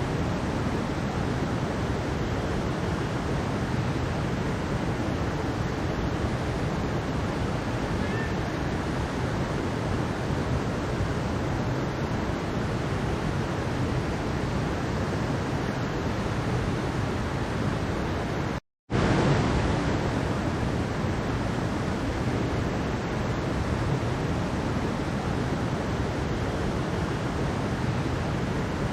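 Mountain stream water rushing steadily, an even noise with no change in level. It cuts out completely for a split second about two-thirds of the way through, then resumes as before.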